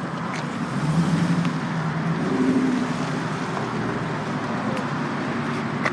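Car engine running at low revs over steady outdoor vehicle noise, its note stepping up a little around the middle.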